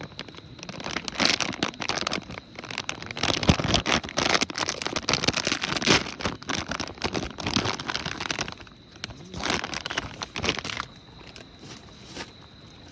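Plastic packaging crinkling and rustling irregularly as it is handled and torn open, with many small crackles, easing off near the end.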